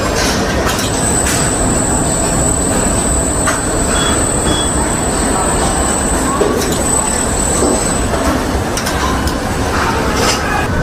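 Steady rumble of a moving vehicle, with a thin high-pitched whine from about a second in until near the end and scattered light clicks.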